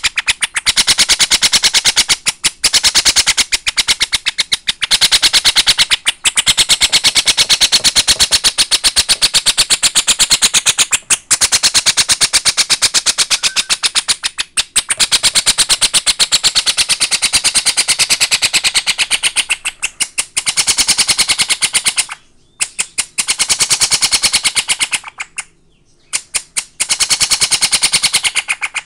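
Baby Princess of Wales parrot begging while being syringe-fed formula: loud, rapid pulsed calls in long runs broken by short pauses, the chick's feeding response that says it is hungry.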